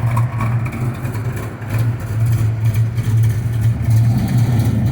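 Ford Mustang GT V8 idling through a loud exhaust, with the uneven, choppy lope of an aggressive camshaft (cam chop).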